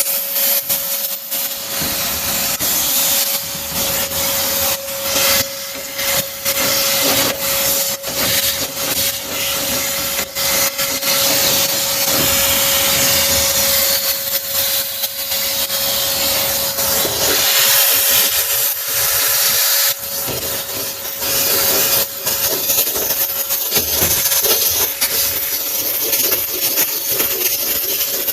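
Vacuum cleaner running with a steady whine and a rushing hiss, its hose nozzle sucking dust from inside a furnace. Many short knocks and rubbing sounds come from the nozzle scraping against the furnace's metal.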